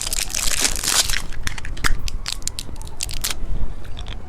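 Hard candy being crunched between teeth close to the microphone: a quick run of sharp crunches and crackles, heaviest in the first second, then scattered until about three seconds in.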